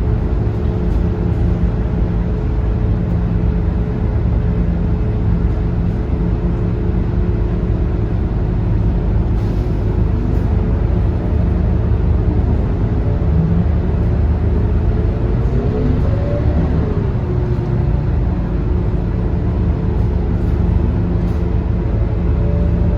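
Scania K230UB city bus's five-cylinder diesel engine running steadily under way, with its pitch sliding up and down briefly about two-thirds of the way through.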